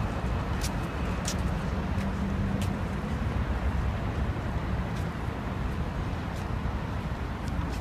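City street ambience: steady traffic noise with a low hum and a few faint sharp clicks.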